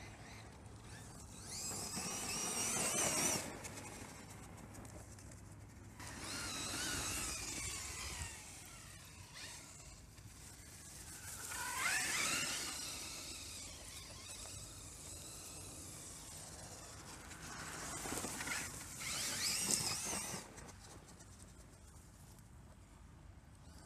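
Team Associated Rival 1/8-scale electric monster truck being driven, its Tekin Redline T8 brushless motor whining up and down in pitch through four passes of acceleration, with quieter stretches between.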